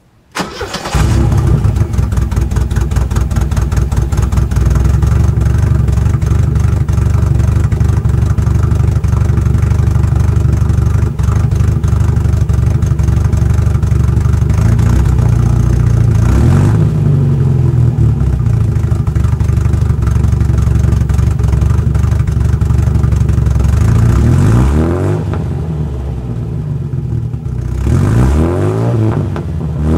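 Porsche 924 four-cylinder engine starting about half a second in, then idling steadily through a rear-muffler-bypassed exhaust. It is revved briefly a few times in the second half, rising in pitch each time.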